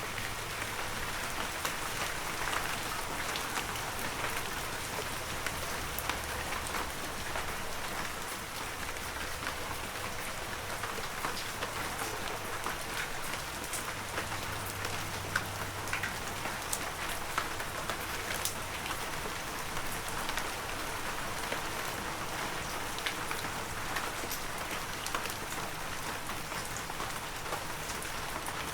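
Heavy rain falling steadily, a dense even hiss with many separate sharp drop hits scattered through it.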